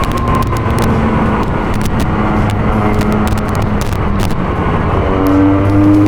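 Benelli TNT 300's parallel-twin engine through an IXIL X60 slip-on exhaust while riding, holding a steady note, then getting louder and climbing in pitch near the end as the throttle opens.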